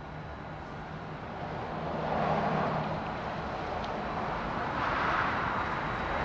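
Vehicle noise without speech, swelling about two seconds in and again near the end.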